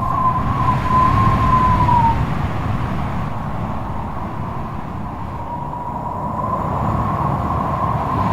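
Strong wind blowing with a low rumble and a wavering, whistling howl that fades out about two seconds in and rises again in the second half.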